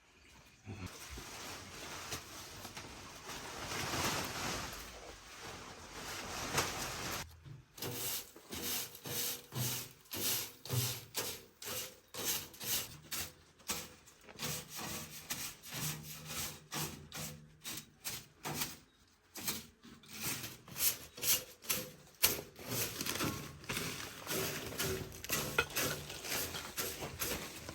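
Steady rubbing for about seven seconds, then a long run of repeated rubbing or scraping strokes, about two a second.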